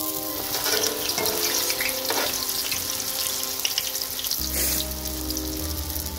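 A flat round of dough deep-frying in a pan of hot oil: steady, dense sizzling with fine crackling, over background music.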